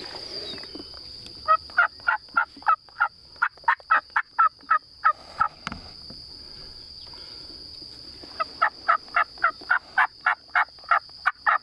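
Two runs of rapid turkey yelping, each about four seconds long with about four sharp notes a second, each note breaking from a lower to a higher pitch. A steady high insect buzz runs underneath.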